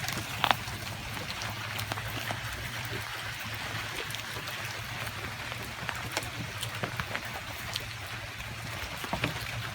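Light rain falling: a steady hiss with many small, scattered ticks of drops, and one sharper tick about half a second in.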